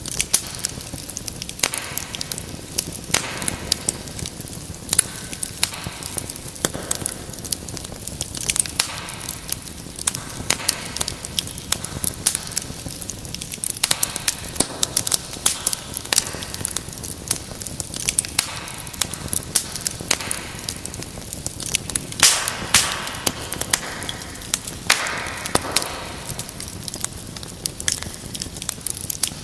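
Wood fire burning in a fireplace: irregular crackles and sharp pops over a steady hiss of flame, with a louder run of pops about three quarters of the way through.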